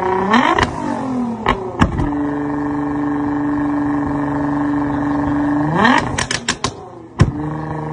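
A modified car's engine is revved briefly and falls back to a steady idle. Near the end it is revved again, and the exhaust gives a quick string of sharp pops and then one loud bang before it settles back to idle.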